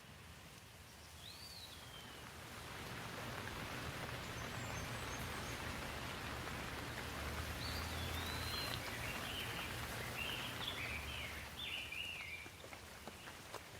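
Rain falling as a steady hiss that builds over the first few seconds and eases near the end, with birds chirping in short rising and falling calls, most of them in the second half.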